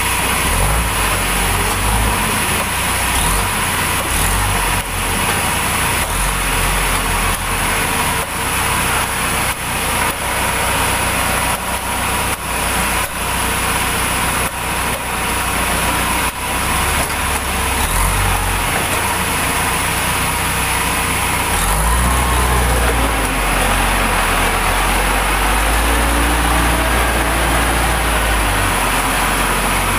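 Engine-driven sawmill machinery running with a steady low drone and a thin high whine. A run of sharp knocks comes through the first half.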